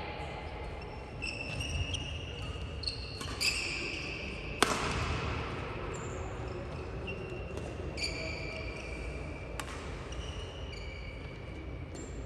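Badminton rally: players' shoes squeak repeatedly on the court floor, and there are sharp racket strikes on the shuttlecock. The loudest strike comes about four and a half seconds in.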